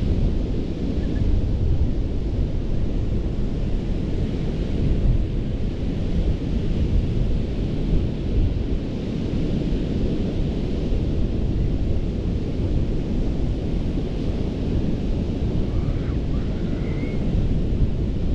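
Gulf surf washing onto a sandy beach under heavy wind buffeting the microphone, a low rumble throughout. The hiss of the wash swells and fades every few seconds, with a faint short chirp near the end.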